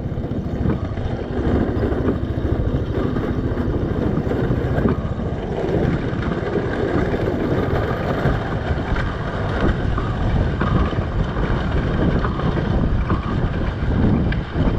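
Dirt bike engine running steadily under way, with wind buffeting the microphone.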